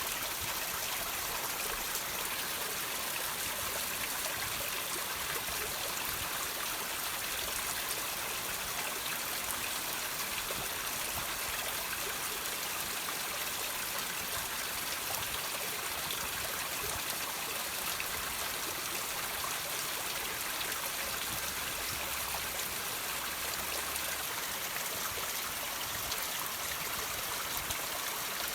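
Water trickling and dripping over rocks: a steady hiss of running water with many small drips and splashes.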